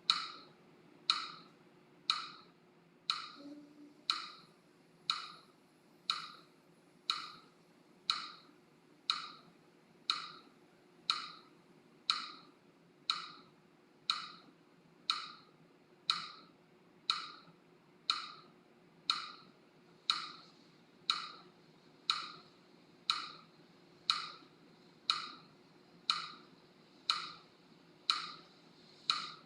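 Metronome-style ticking: a sharp woody click about once a second, perfectly even.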